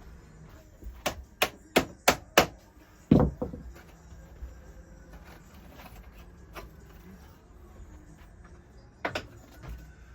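Hammer tapping a dirt bike's rear wheel axle out: five sharp strikes in quick succession, about three a second, then a heavier knock about three seconds in, and a single strike near the end.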